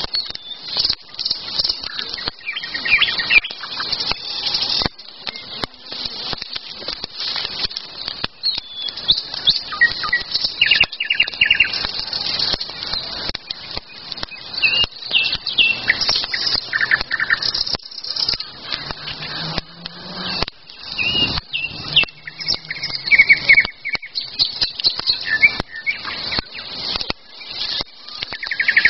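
Several songbirds singing, short repeated phrases and chirps overlapping one another, with frequent sharp clicks throughout.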